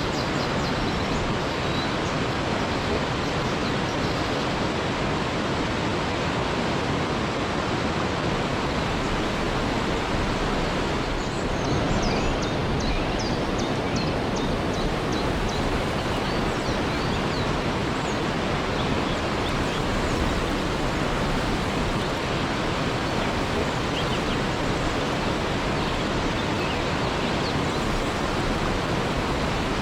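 Steady rushing of a waterfall. A short run of quick, high bird chirps comes about twelve seconds in, with a few faint chirps later.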